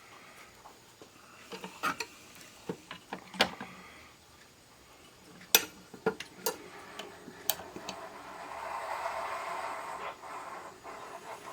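Hands working on the parts of an 8-track player: scattered sharp clicks and taps of small parts and tools, then a few seconds of scratchy rubbing about eight seconds in.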